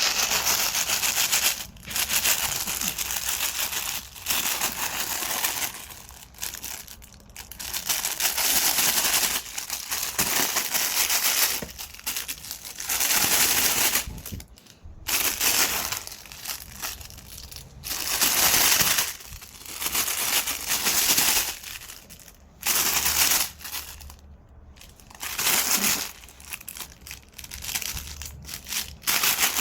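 Thin plastic carrier bag crinkling and rustling as a poodle plays with it, in repeated bursts of one to two seconds with short pauses between.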